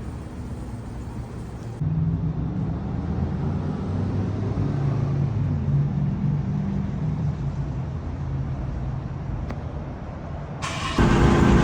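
Turbocharged VW Beetle engine running on the move, its note rising a little and easing off again. The sound changes abruptly about two seconds in and jumps louder near the end.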